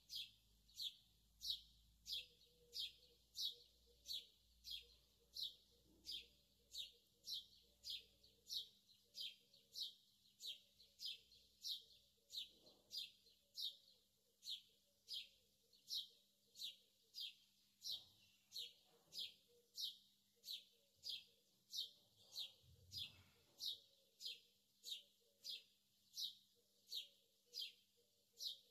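A bird chirping over and over, short high chirps at a very even pace of about two a second.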